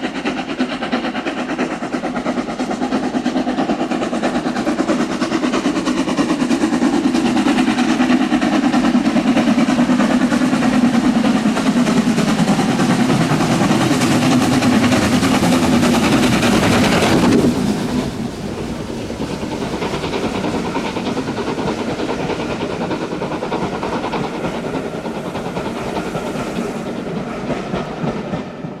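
Steam-hauled heritage train passing close by. The noise builds to its loudest about seventeen seconds in, drops sharply, and the carriages keep rolling past with wheels clicking over the rail joints.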